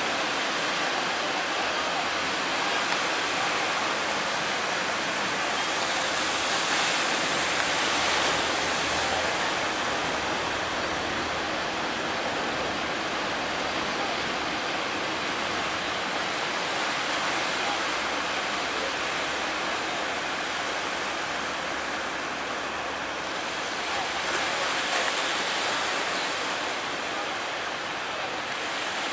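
Big ocean waves breaking in a steady roar of surf that swells louder twice, briefly.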